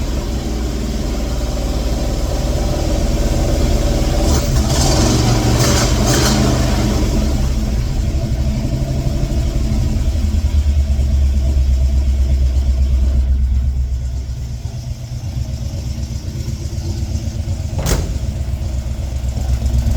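1958 Ford F100's Y-block V8 running on its own just after its first start in 40 years, the revs rising and falling unevenly. The engine sound swells, then drops lower about two-thirds of the way through, and a single sharp click comes near the end.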